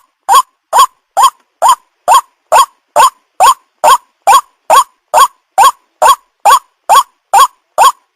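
White-breasted waterhen's call, played as a lure recording. It repeats evenly at a little over two calls a second, each a short note that rises and then falls.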